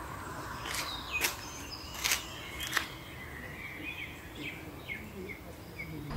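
Outdoor ambience of birds chirping in short, high calls over a steady background hiss, with a few sharp clicks in the first three seconds.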